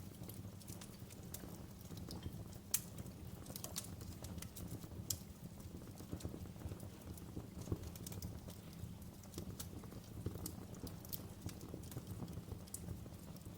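Wood fire crackling in a fireplace: irregular sharp pops and snaps over a low steady rumble of the flames, with the loudest pop about three seconds in.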